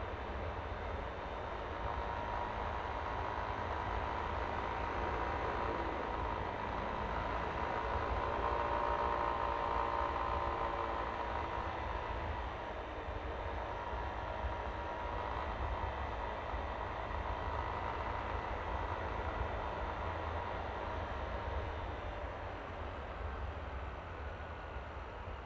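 Yamaha Aerox V3 scooter's single-cylinder engine and belt drive running at riding speed, with wind and road noise. A steady whine runs through it, and the sound swells about a third of the way in, then eases off toward the end.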